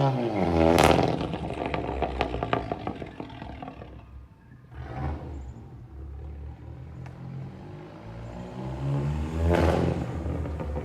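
Volkswagen MK7 GTI's turbocharged four-cylinder through a catless CTS downpipe, tuned for crackles and pops: a loud rev about a second in dies away in a string of sharp crackles and pops, the engine then runs low, and a second loud rev comes near the end.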